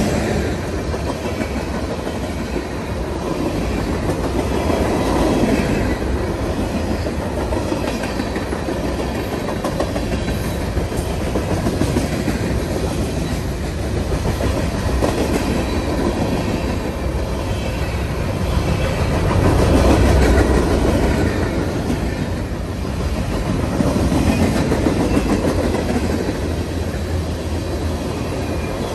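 Freight cars (covered hoppers and tank cars) rolling past at trackside, their steel wheels running over the rails in a steady, continuous rattle that swells and eases slightly as each car goes by.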